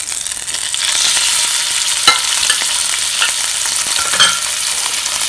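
Minced pork sizzling loudly in hot oil with pounded chili and garlic in a frying pan, being stir-fried, the hiss swelling about a second in. A few sharp spatula clicks against the pan.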